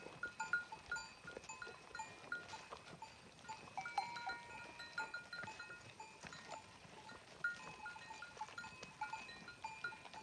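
Neck bells on grazing livestock clinking irregularly: many short metallic rings, some close together, some spaced out.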